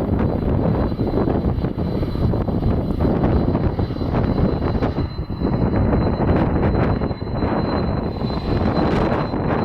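Jet airliner engines running with a thin steady high whine, mixed with heavy gusty wind buffeting the microphone.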